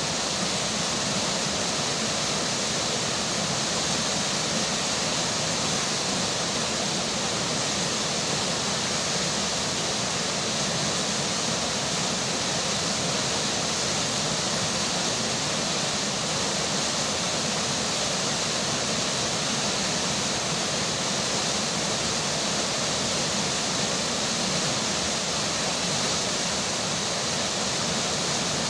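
Flowing river water, a steady even rush with no breaks or separate events.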